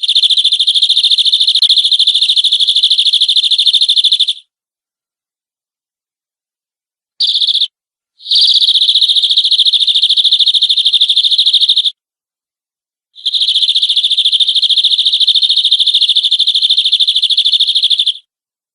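Domestic canary singing long, fast, even trills held at one high pitch: three phrases of several seconds each, plus one short burst, broken by clean gaps.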